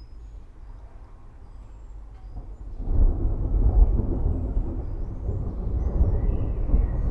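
Rolling thunder: a low rumble that swells sharply about three seconds in and keeps rolling on.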